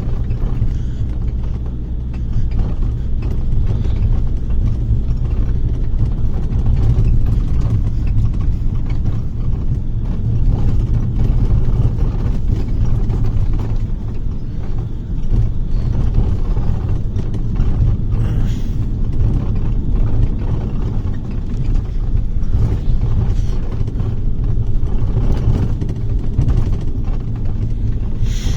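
Inside a moving bus: steady low engine and road rumble, with the bus body rattling. A short, sharper noise comes near the end.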